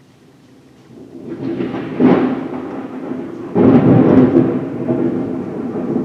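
Thunder rumbling: it builds from quiet about a second in and rolls on, with two louder peaks around two and three and a half seconds in.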